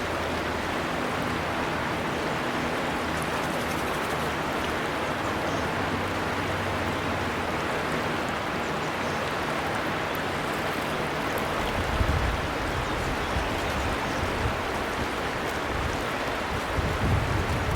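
River water flowing with a steady rushing sound. Uneven low rumbles join in about two-thirds of the way through and again near the end.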